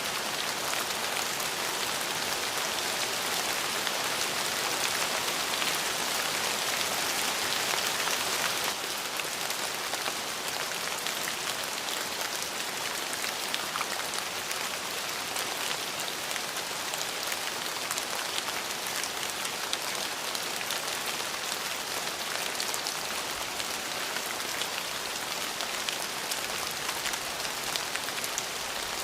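Steady rain falling on a surface: a dense even hiss with scattered individual drop ticks. It is a little louder for the first eight or nine seconds, then settles a step lower.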